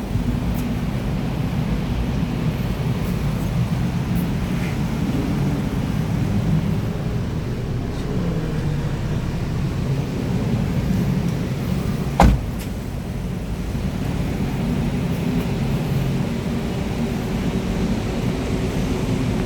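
Nissan Qashqai's 1.2-litre petrol engine running with a steady low rumble whose pitch drifts a little, broken by one sharp knock about twelve seconds in.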